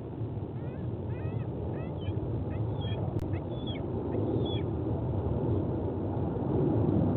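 White-bellied sea eagle calls: a quick series of short, yelping high notes lasting about four seconds, over a steady rumble of wind on the microphone. A single sharp click sounds in the middle of the calls.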